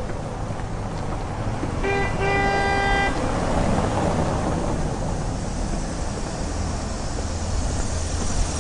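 A horn toots twice, a short blip and then a held toot of about a second, over steady background noise.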